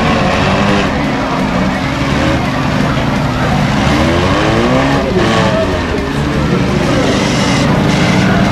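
Demolition derby cars' engines revving hard, with the pitch rising and falling a few times around the middle, over a steady din of engine and tyre noise.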